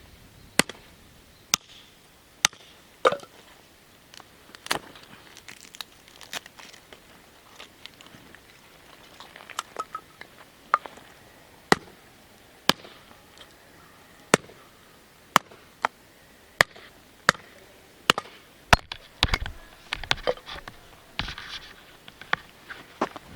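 Wood fire crackling, with sharp pops at uneven spacing, about one a second, and a busier patch of crackle near the end.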